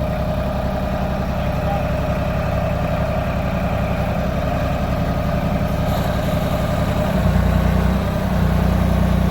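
Pickup truck engine idling steadily while the truck is eased backward, the engine getting louder about seven seconds in as it takes up the load.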